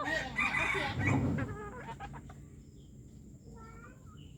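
F1 junglefowl cross clucking: a loud run of calls in the first second and a half, then one short call at about three and a half seconds.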